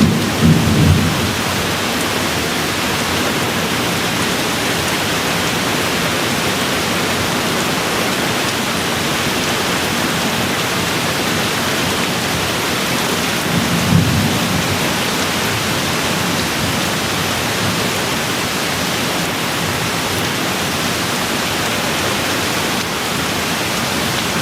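Steady rain falling, with low rumbles of thunder in the first second and again about halfway through.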